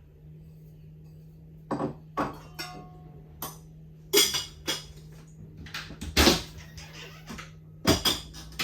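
Kitchenware being handled: a series of sharp clinks and knocks of dishes and utensils, one ringing briefly, over a steady low hum.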